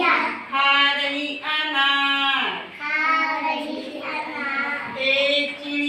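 Children singing a Hindi counting rhyme about little birds, in phrases of long held notes.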